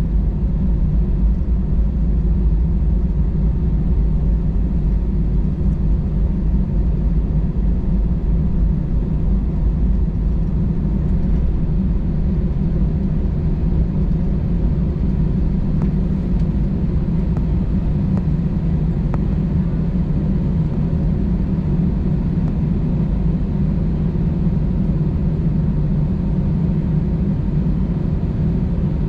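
Steady cabin rumble of an Airbus A320-216 with its CFM56 engines running, heard inside the passenger cabin. A faint steady whine sits over the deep rumble, and the level holds even throughout.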